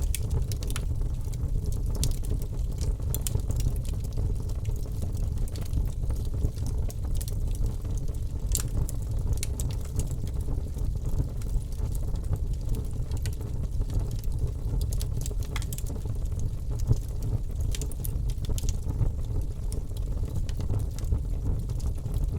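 Fire burning in a fireplace: a steady low rumble of flames with scattered crackles and pops.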